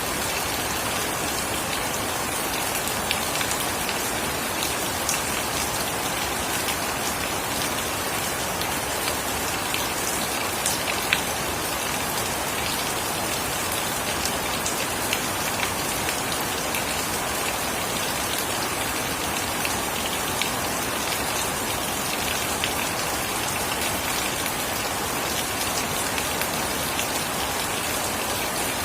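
Steady rain falling, an even hiss with scattered sharper drip and splash clicks of individual drops.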